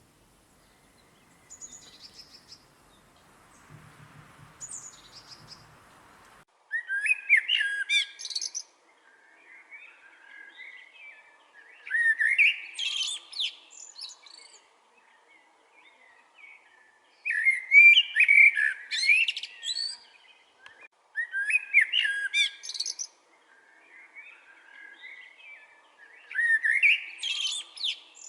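A songbird singing loud, fast, high phrases about two seconds long, repeated every four to five seconds from about six seconds in, with softer chirps in between.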